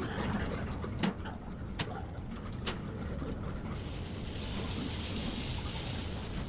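Steady low rumble of a moving road vehicle, with three sharp clicks in the first three seconds and a hiss that comes in about halfway through.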